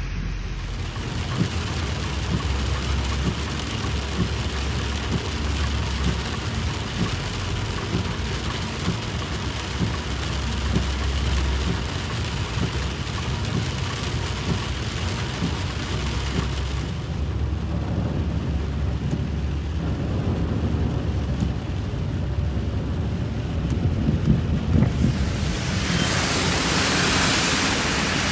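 Heavy rain pouring steadily, with low rumbling underneath at times. Near the end the rain's hiss grows louder and brighter.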